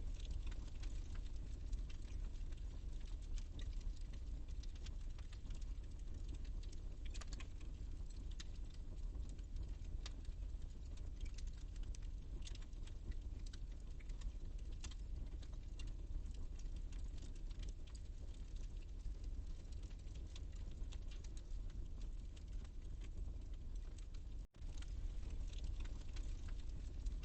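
Wood fire burning in a fireplace: a steady low rumble of flames with many small, irregular crackles and pops. There is a brief break in the sound a little over 24 seconds in.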